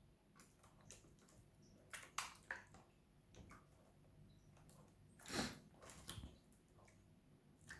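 Budgie bathing in shallow water: faint, irregular splashes and flicks of water, with one larger splash about five seconds in.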